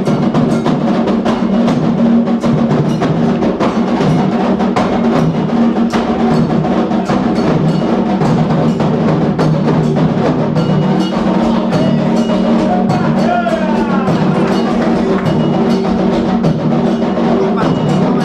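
Candomblé ritual drumming: atabaque hand drums struck in a fast, continuous rhythm with a clanging bell pattern over them and voices singing along.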